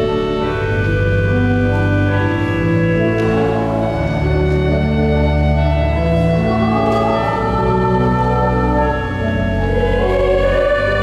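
Pipe organ playing held chords, with a choir singing along from about four seconds in.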